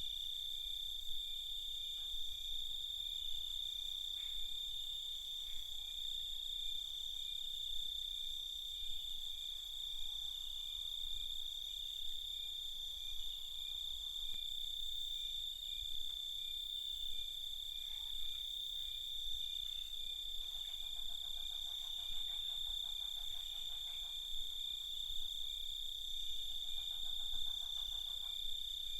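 Night chorus of crickets: a steady, high-pitched chirring held on one pitch, with fainter higher-pitched insect trills above it. A lower, rapidly pulsing call joins about two-thirds of the way through and again near the end.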